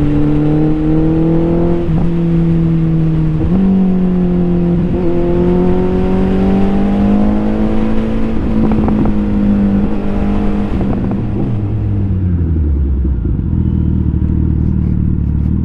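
Motorcycle engine under way, its pitch climbing slowly with several brief breaks, then falling about two-thirds through and settling to a low steady note as the bike slows.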